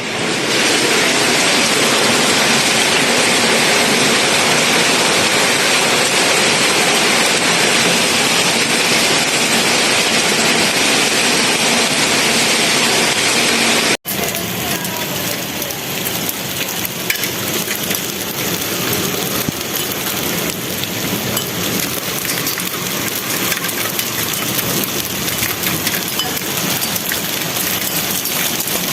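Hailstorm: a dense, steady hiss of hail and rain pelting down. After a sudden cut about halfway, a second, slightly quieter stretch of the storm follows, with scattered sharp hits of hailstones.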